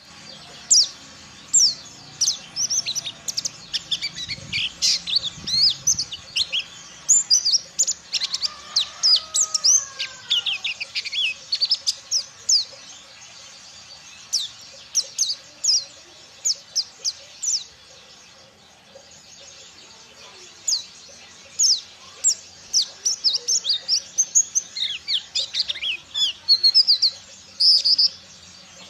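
A pleci (white-eye) singing in rapid runs of high, thin chirps and twittering notes. There are two long bursts of song with a pause of several seconds in the middle.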